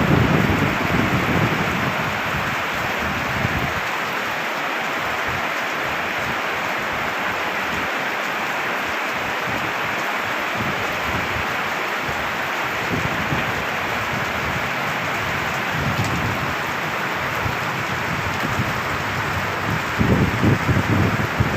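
Heavy rain falling steadily as a dense hiss, with low rumbles swelling up in the first few seconds and again near the end.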